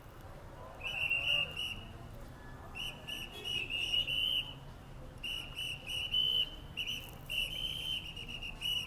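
A police officer's whistle blown in a series of short and long blasts, directing traffic, over a low steady hum of traffic.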